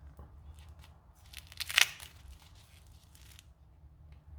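A sticky tyre-plug repair strip being peeled and handled, a crackly tearing sound with one sharp loudest rip about a second and a half in, over a low steady hum.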